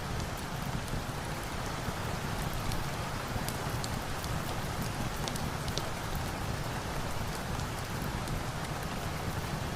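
Steady rain, mixed with the scattered sharp pops of a crackling log fire.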